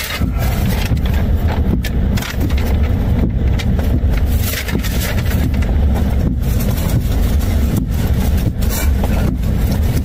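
Steady low rumble of a car's engine idling, heard from inside the cabin, with irregular clicks and rustles of food and its wrapping being handled.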